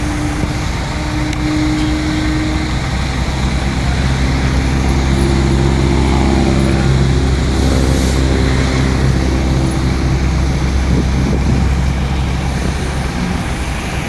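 Heavy diesel engine of earthmoving machinery running under load. It grows louder toward the middle and eases off near the end.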